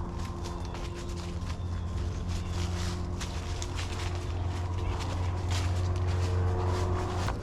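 A small propeller airplane droning overhead, its engine tones slowly shifting in pitch. Footsteps crunch on the trail throughout.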